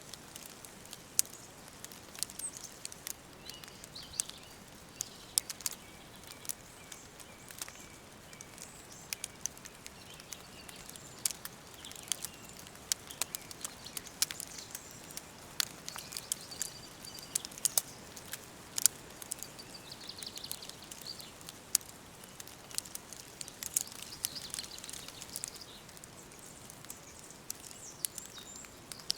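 Wood fire crackling, with irregular sharp pops and snaps over a faint hiss, and faint bird calls in the background.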